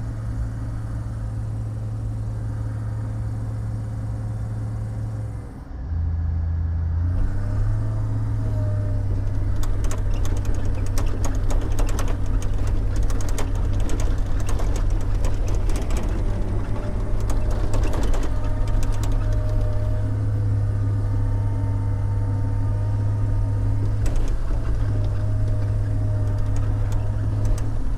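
Heavy diesel engine of a log loader running steadily, heard from inside the cab, with a brief change in engine pitch about six seconds in. Through the middle comes a run of knocks and clatter.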